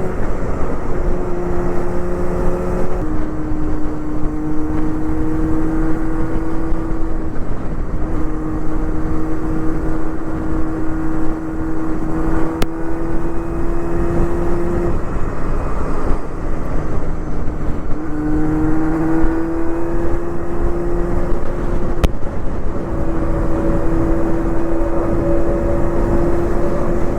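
A Honda Hornet 250's inline-four engine with a loud Pretty Racing aftermarket muffler, heard while riding at expressway speed with wind rush on the microphone. The engine note holds steady and climbs slowly, with a few sudden drops and rises in pitch as the throttle or gear changes.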